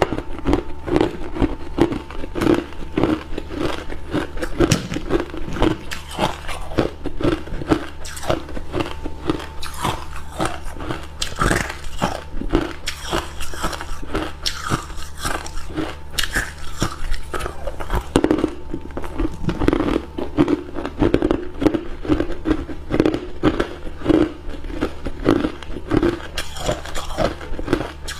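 A person biting and chewing hard cube ice close to the microphone: rapid, continuous crunching and cracking of the ice between the teeth.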